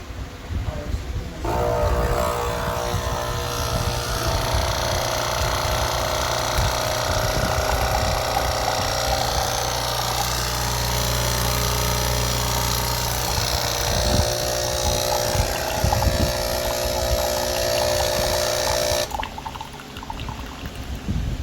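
Nespresso Inissia espresso machine's vibration pump running steadily with a low hum, starting about a second and a half in and cutting off near the end.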